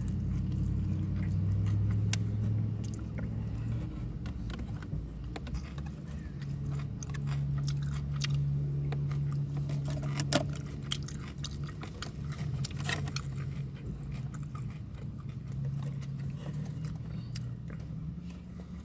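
Someone chewing and biting into a sandwich, with scattered short crunches and clicks, over a steady low hum.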